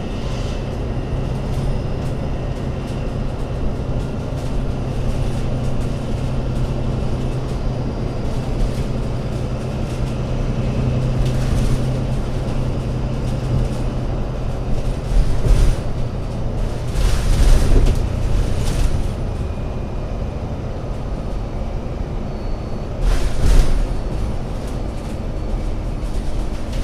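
Alexander Dennis Enviro500 MMC Euro 6 double-deck bus's diesel engine running with a steady low drone. A few short bursts of noise come through over it, the loudest near the end.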